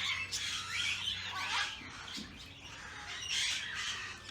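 Several birds squawking and calling over one another: harsh squawks in bursts mixed with short sweeping calls, with a quieter lull around two seconds in.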